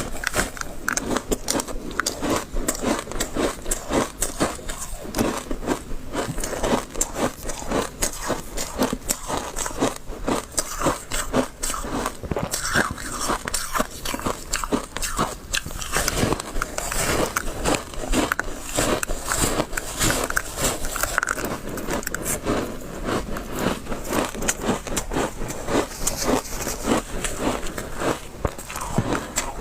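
Person biting and chewing crunchy refrozen shaved ice close to the microphone: a dense, irregular stream of crackling crunches, several a second.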